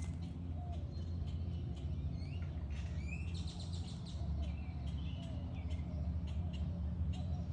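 Songbirds chirping, with short rising calls and a rapid trill a few seconds in, over a steady low rumble.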